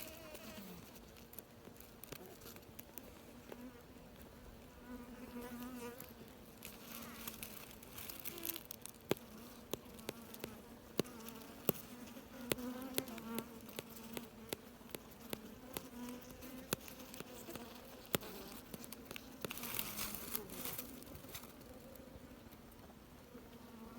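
Bees buzzing in an underground nest: a steady low hum that swells and fades a little. Sharp clicks come now and then, mostly in the middle.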